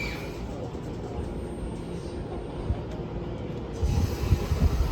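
JR East E231 series 900-番台 electric commuter train pulling out of a station: a steady low rumble from its running gear, with a run of louder low knocks from the wheels near the end.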